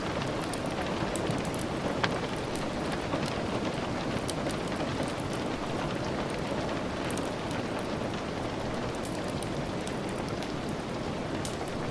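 Steady heavy rain, a dense even hiss with many small sharp ticks of drops and one louder crack about two seconds in.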